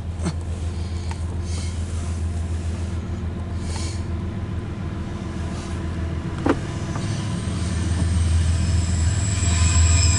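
Diesel locomotives of an empty coal train approaching: a steady low engine drone that grows louder over the last few seconds as a rising hiss of wheels on rail comes in. There is one sharp click about six and a half seconds in.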